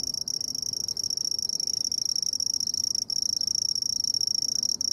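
Handsome trig (red-headed bush cricket) male singing: a steady, high-pitched trill made by rubbing his raised wings together, broken by three very brief gaps.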